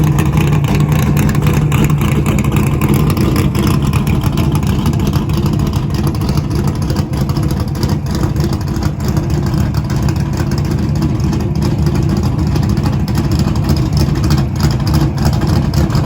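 Ernie Elliott-built V8 race engine of a retired NASCAR stock car running steadily, loud and even, with its dry-sump oil already warmed and circulated before the start.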